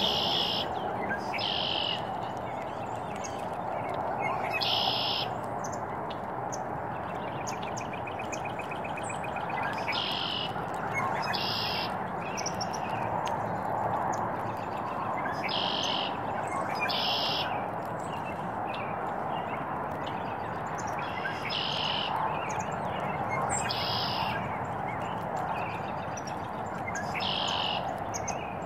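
Small birds chirping: short high calls every few seconds, with a rapid trill about eight seconds in, over a steady background hiss.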